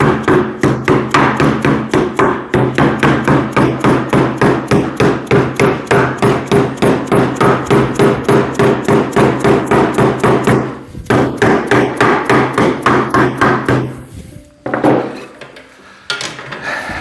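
Hammer tapping a reed spline into the groove of a pressed-cane chair seat, a fast even run of about four taps a second, stopping near the end.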